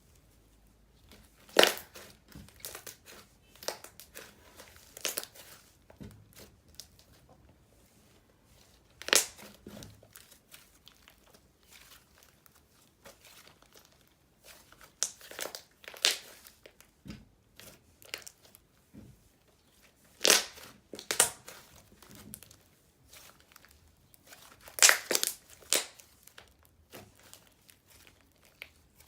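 Butter slime with small cubes mixed in, squished and stretched by hand, giving irregular sticky clicks and crackles in clusters every few seconds with quiet between.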